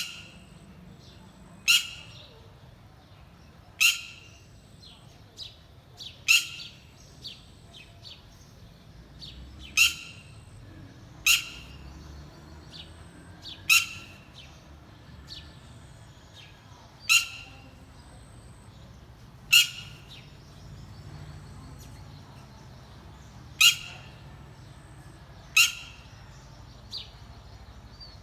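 A parent bird giving short, loud, sharp calls over and over, about one every two seconds, with fainter calls in between: a parent calling while guarding its young.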